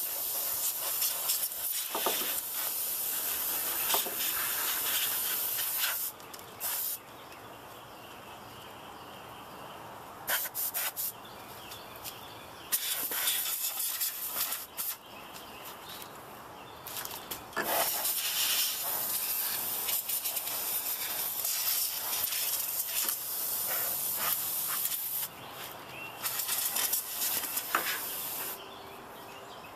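Canned compressed air blown in repeated bursts to clear dust out of a computer case: a high hiss that starts and stops again and again, the longest blasts lasting several seconds.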